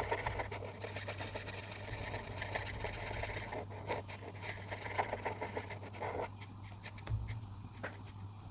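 Coloring tool scratching on paper in rapid back-and-forth strokes, with a steady low hum underneath.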